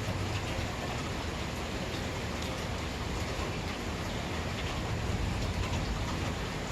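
Steady rain falling hard, with the patter of scattered drops hitting a surface.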